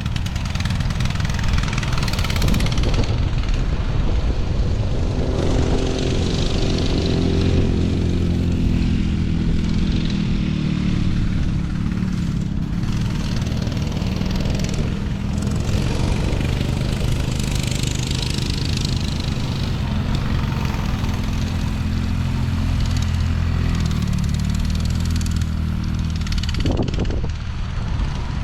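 Small off-road vehicle engine running steadily while being ridden, its pitch rising and falling slightly with the throttle.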